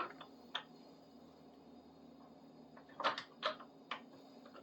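A few short scrapes and taps of a small triangular file on the steel tip of a screwdriver clamped in a vise: one at the start, one about half a second in, and a quick cluster of strokes between three and four seconds in.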